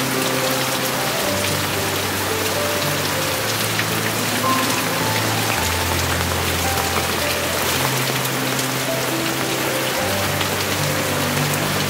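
Heavy monsoon rain falling steadily, a dense patter of drops. Soft background music of slow, held notes plays over it.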